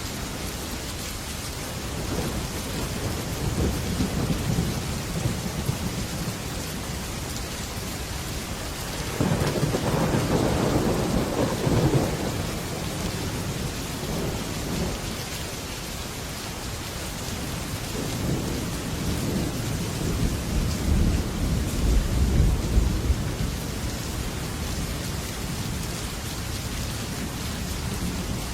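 Heavy rain drumming steadily on a metal roof, with rolls of thunder rumbling up three times, the loudest about nine seconds in.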